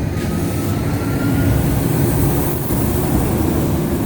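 Train running close by: a loud, steady low rumble with an engine hum.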